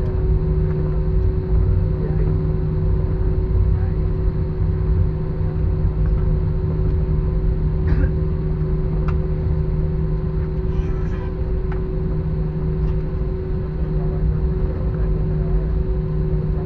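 Airliner cabin noise in flight: a steady low rumble from the engines and airflow with a constant hum over it, and a few faint clicks near the middle.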